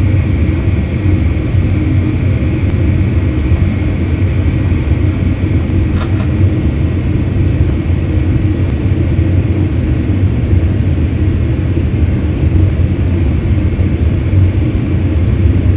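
Steady, loud rumble of a Boeing 787-8's jet engines and airflow heard inside the cabin, with a faint steady whine above it. A single short click about six seconds in.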